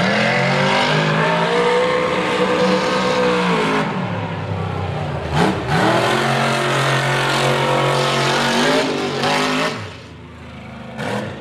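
Mega truck engine revving hard: the pitch climbs and holds, eases about four seconds in, then winds up again and holds until it drops away near the end. A short sharp crack comes about five and a half seconds in.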